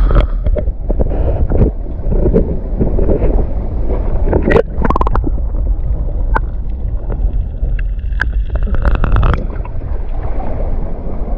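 Wind buffeting the microphone at sea, a steady low rumble with scattered knocks through it.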